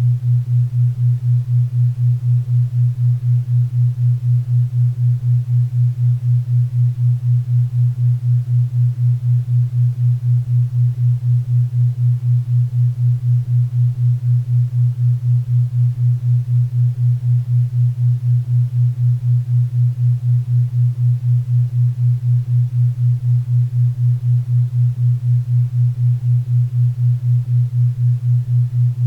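Low steady tone pulsing evenly about four times a second: a 4 Hz theta-wave brainwave-entrainment tone, over faint pink and brown noise.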